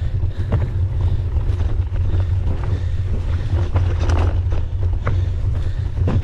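Wind buffeting the microphone of a camera riding on a mountain bike at race pace, a steady low rumble, with scattered knocks and rattles from the bike on rough trail.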